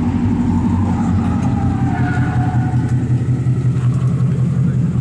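A car engine and exhaust running steadily at low revs, loud and deep, with no hard revving.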